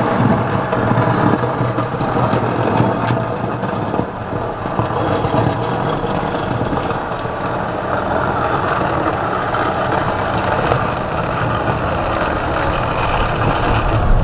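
John Deere 3046R compact tractor's three-cylinder diesel engine running steadily under load, revving up at the start as the tractor sets off pushing snow with a rear blade.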